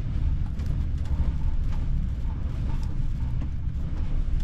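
Storm wind buffeting the microphone: a steady, gusting low rumble, with a few faint clicks.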